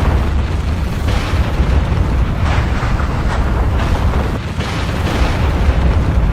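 Volcanic eruption: a continuous deep rumble with repeated bursts and crackles of explosions over it.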